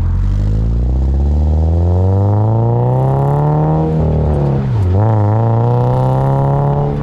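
2022 Subaru BRZ's flat-four engine heard through an OTL header and single-exit cat-back exhaust, revving under acceleration. Its pitch climbs steadily for about four seconds, dips briefly, then climbs again.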